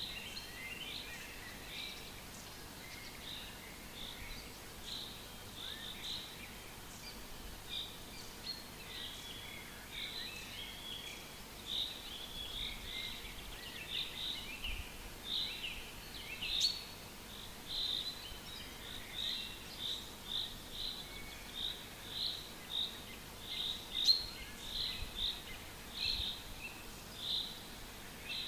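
Forest birds singing, with many short chirps and trills overlapping. Through the second half, one bird repeats a short note steadily, a little under two a second.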